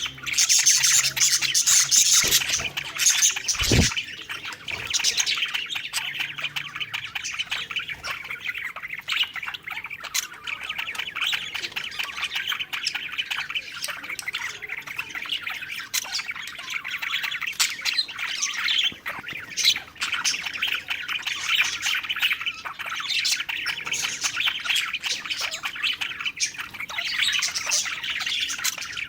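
Several budgerigars chattering, chirping and squawking nonstop in a dense warble. There is a brief low thump about four seconds in.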